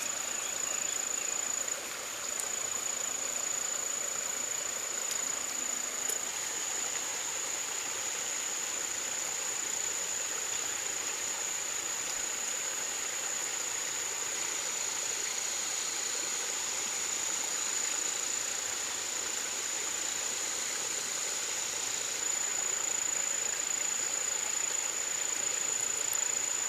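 Steady outdoor ambience: a continuous high, thin insect trill over an even hiss.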